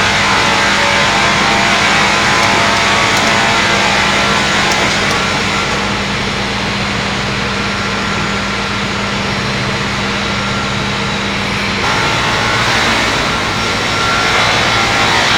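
Multi-blade circular sawing machine running loud and steady. About twelve seconds in, a steady hum drops out and the noise changes.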